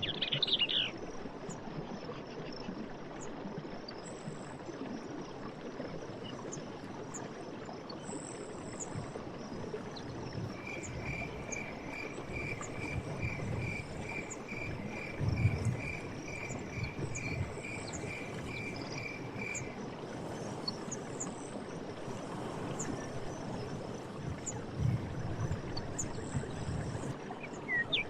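Forest ambience of running stream water, a steady rushing hiss, with insects chirring high and fast throughout. From about ten seconds in, one creature repeats a single short note about twice a second for some nine seconds, and brief bird chirps come at the start and at the end.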